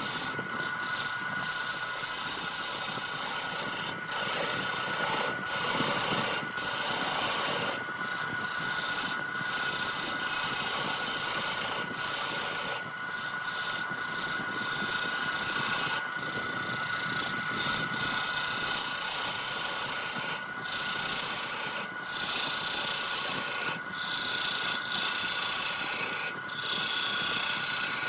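Wood lathe running, with a turning tool scraping against the spinning redwood and a steady whine underneath. The cutting sound breaks off briefly every second or two as the tool comes off the wood.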